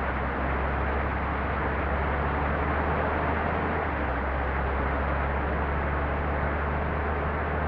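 Bus engine running with a steady low rumble and constant road and tyre noise.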